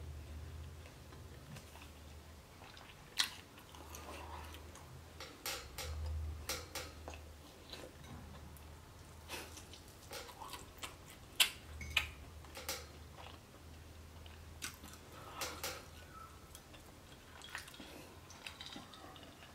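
A person chewing and biting potato tots close to the microphone: irregular small clicks and crunches, with two sharper clicks standing out.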